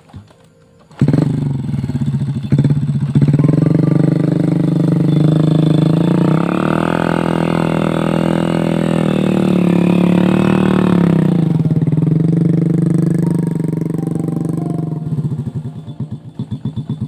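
Motorcycle engine revving hard under load: its pitch climbs and holds for several seconds, drops back, then runs unevenly in pulses near the end.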